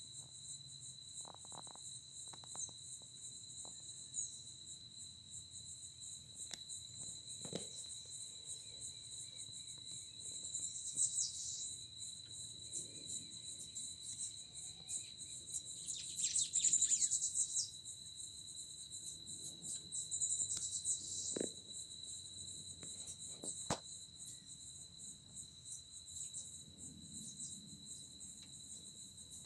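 Insects, crickets by the sound of it, trilling steadily in a high-pitched chorus. Louder bursts of rapid chirping come three times, the loudest about halfway through.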